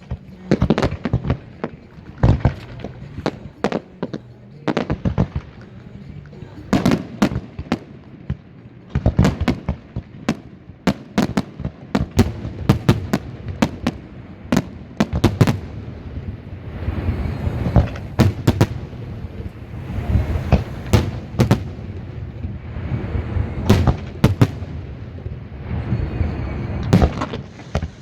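Aerial fireworks going off in a steady barrage of sharp bangs, several a second at times, with stretches of hissing crackle between them.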